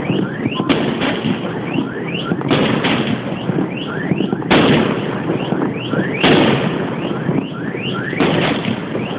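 Fireworks going off in a dense, continuous crackle, with many short rising whistles and several sharp bangs, the loudest about halfway through and again a little later.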